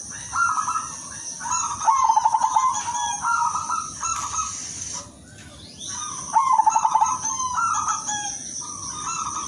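Silver perkutut (zebra dove) singing: repeated phrases of quick staccato cooing notes, each phrase about a second long, over a steady high-pitched whine that breaks off briefly about five seconds in.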